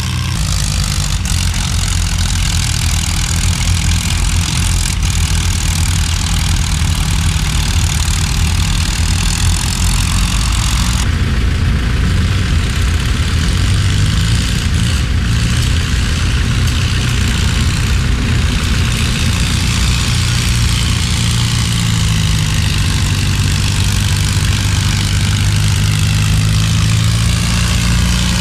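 Antique farm tractor engine running loud and steady, its low note climbing slightly in the second half as it works harder.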